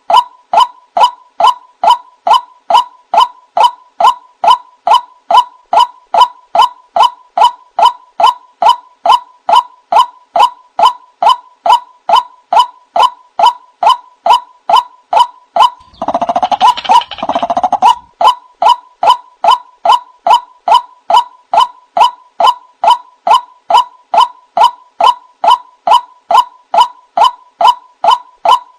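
White-breasted waterhen calling: a steady, monotonous run of short notes, about two to three a second. About sixteen seconds in, a louder, harsher burst of calling lasts around two seconds.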